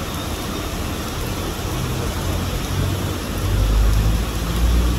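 Willys Rural's engine running as it wades through deep flood water, a low rumble that grows louder over the last couple of seconds as it comes closer, over a steady hiss of rain and moving water.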